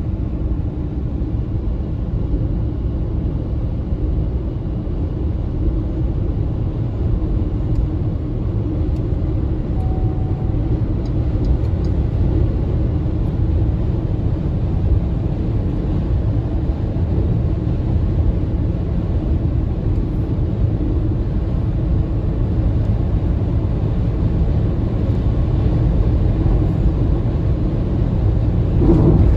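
Steady low road and tyre rumble of an MG ZS EV electric SUV driving at speed, with no engine note.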